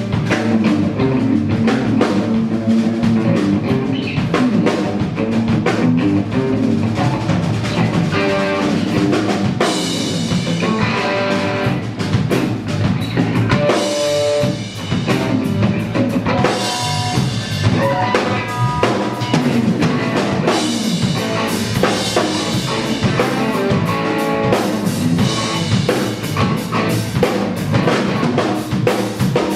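Rock band playing live: drum kit with bass drum and rimshots driving a steady beat under guitar lines.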